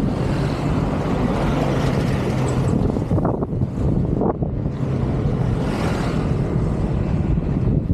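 Wind buffeting the microphone of a moving bicycle, a steady rumbling noise.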